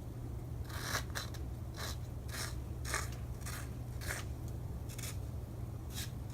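Snow crunching in a regular series of short crunches, about two a second.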